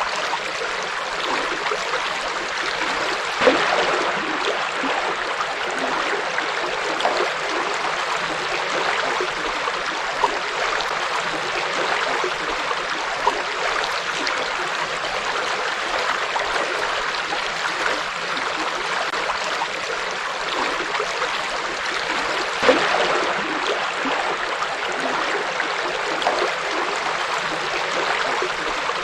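Small river flowing over stones, a steady rush of water with gurgles and little splashes, a slightly louder splash a few seconds in and another near the end.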